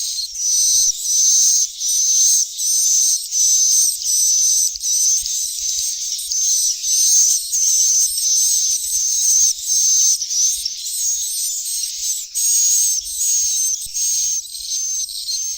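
Edible-nest swiftlet chicks' calls: shrill, high-pitched chirps repeating over and over, about one every three-quarters of a second. This is a swiftlet-house lure recording, played to draw swiftlets in to roost.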